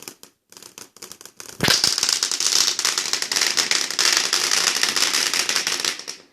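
Firework display: a few scattered pops, then a sharp bang about a second and a half in and a dense crackling of many tiny bursts for about four and a half seconds, stopping abruptly near the end.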